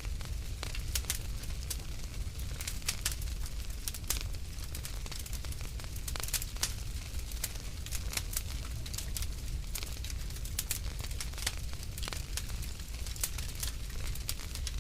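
Wood fire crackling in a fireplace: a steady stream of sharp, irregular pops and snaps over a low, even rumble.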